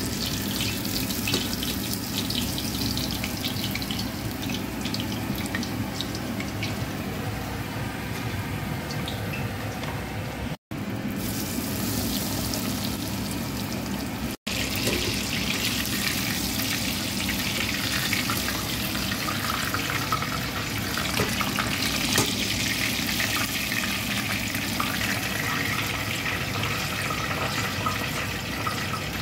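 Battered chicken pieces deep-frying in a pot of hot oil: a steady sizzle and crackle.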